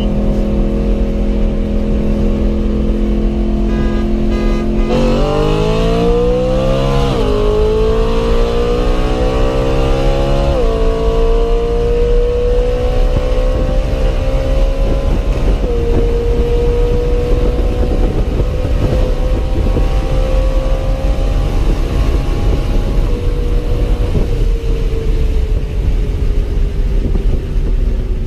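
BMW E90 M3's naturally aspirated V8, heard from inside the cabin, accelerating hard from a steady cruise: the engine note climbs and drops back at each upshift, three times, then keeps rising slowly and falls away near the end as the throttle is lifted.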